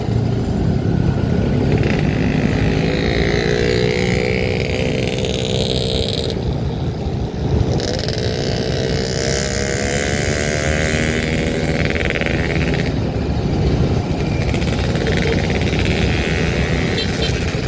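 Motor vehicle driving on the road, its engine note rising in pitch, dropping off twice and rising again, over steady low rumble and road noise.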